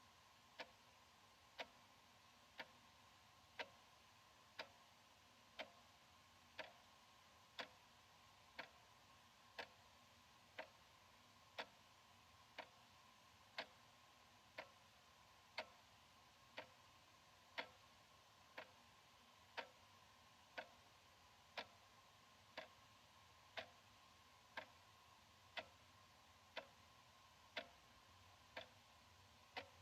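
Analog wall clock ticking, one crisp tick each second at an even, slightly alternating strength, over a faint steady hum.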